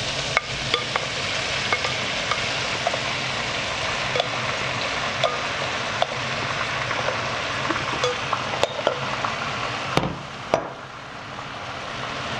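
Onion, garlic and tomato frying in a pan, a steady sizzle with scattered small pops while a spatula stirs. About ten seconds in there are two sharp knocks, after which the sizzle drops briefly and builds up again.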